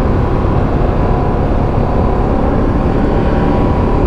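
Motorcycle engine running steadily while riding, under a heavy rumble of wind and road noise.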